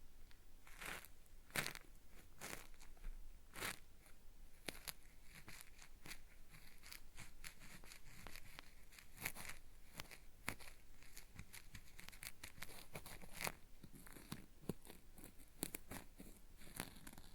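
Cotton swab scratching against a binaural microphone's ear in ASMR ear cleaning: a dense, gritty 'zari-zari' scraping made of irregular crackles and clicks, meant to sound like something being peeled away inside the ear.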